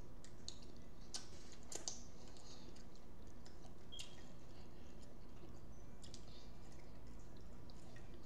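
Close-miked eating of barbecued ribs: scattered short wet clicks and smacks of chewing, over a steady low hum.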